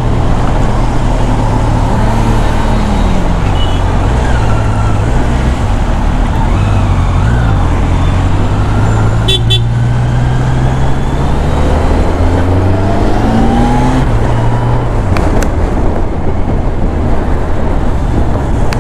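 Kawasaki Z900's inline-four engine, on its stock exhaust, running steadily under way in road traffic, its revs rising from about twelve seconds in. A horn toots briefly about halfway through.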